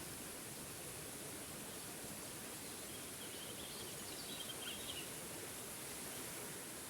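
Waterfall rushing steadily, with a few faint bird chirps about halfway through.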